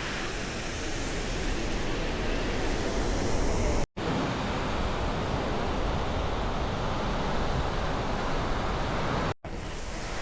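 Steady surf and wind noise, with wind rumbling on the microphone, broken twice by momentary dropouts where the sound cuts out.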